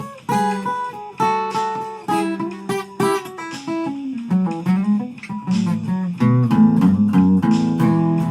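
Instrumental guitar break: single plucked notes trace a falling melody, then fuller strummed chords come in louder about six seconds in.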